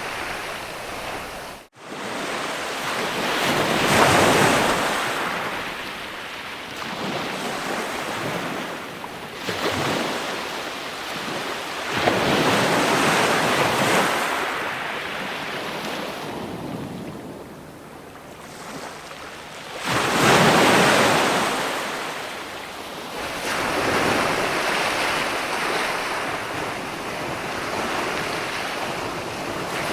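Ocean waves breaking and washing up the shore, the surf swelling and ebbing every several seconds. There is a sudden, momentary dropout of the sound about two seconds in.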